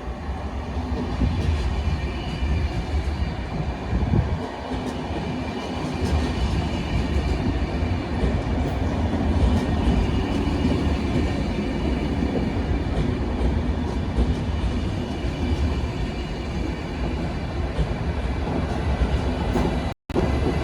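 DSB push-pull passenger train with a Vectron (Litra EB) electric locomotive running along the station track, a steady rumble with rail clicks.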